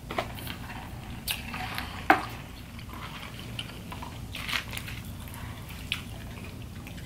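Close-miked eating of fried popcorn shrimp: chewing and biting, with scattered small clicks and rustles from handling the paper food boxes. There is one sharper tap about two seconds in.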